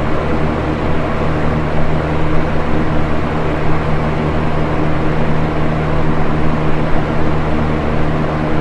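Box fan running steadily: an even whoosh of moving air over a low motor hum.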